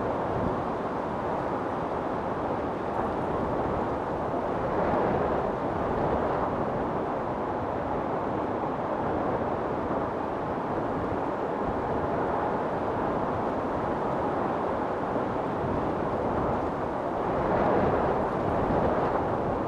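Wind storm blowing: a steady, dense rushing of wind that swells in gusts about five seconds in and again near the end.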